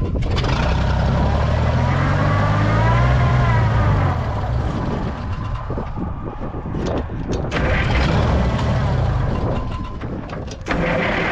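Oliver tractor's engine running, revving up and settling back down about two to four seconds in. The engine has been cutting out, and the owner suspects its air-to-fuel mixture; this run follows a turn of the adjustment screw.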